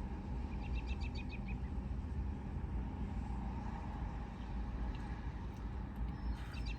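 A bird's rapid trill of about eight quick chirps, heard twice: once early and again near the end. It sounds over a steady low rumble.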